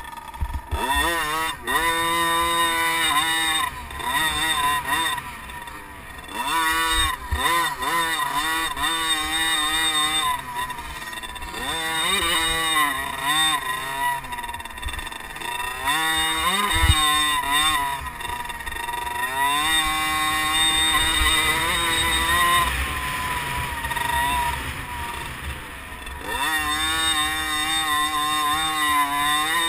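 Liquid-cooled 50cc two-stroke motocross bike engines revving hard, the high-pitched note climbing through the revs and dropping off again and again as they race. A brief thump sounds just past halfway.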